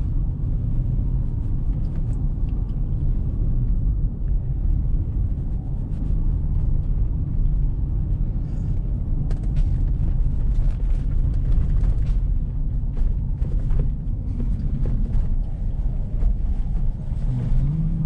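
A car driving through deep fresh snow: a steady low rumble of engine and tyres, with scattered light clicks and ticks.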